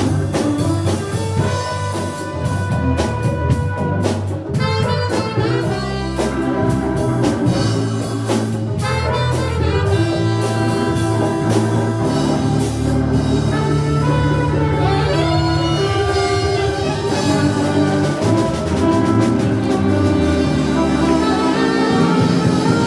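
Live jazz band playing an instrumental number, with horns over bass and drum kit.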